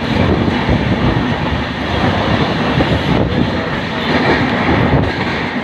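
A moving train running steadily, with the continuous noise of its wheels on the track.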